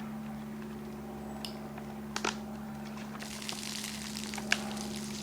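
Carbonated lemonade fizzing and crackling out of a split plastic bottle: a fine hiss that grows about three seconds in, with a few small clicks and pops, over a steady low hum.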